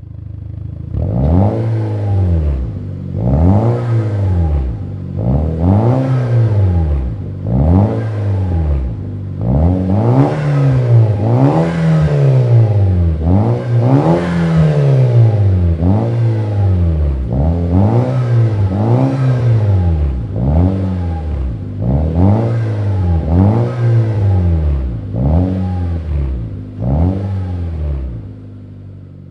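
Nissan Juke NISMO's 1.6-litre turbocharged four-cylinder engine blipped again and again through a Cobra Sport boxed secondary cat-back performance exhaust, each rev rising and falling back in a steady run of blips. It settles back down near the end.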